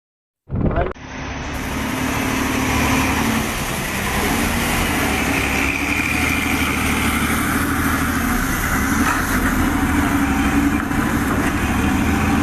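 A heavy diesel engine idling steadily, with a constant low hum and outdoor background noise. A short loud burst comes just after a brief silence at the start.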